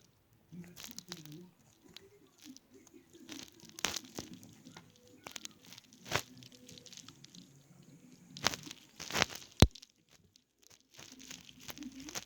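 Plastic packaging crinkling and crackling in irregular bursts as it is handled, with a single sharp click about two-thirds of the way through.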